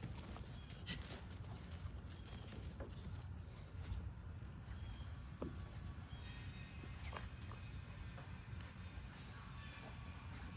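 Steady, high-pitched drone of an insect chorus, unbroken throughout, with scattered faint taps and scuffs over it.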